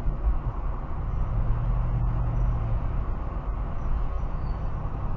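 Mercedes-Benz CLK430's V8 running with a steady low rumble. A low, steady howl comes in about a second in and fades out near three seconds: a strange howling noise whose cause is unknown.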